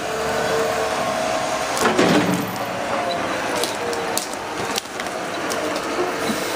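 Heavy street-clearing machine running steadily, with a few sharp knocks, about two seconds in and again near five seconds.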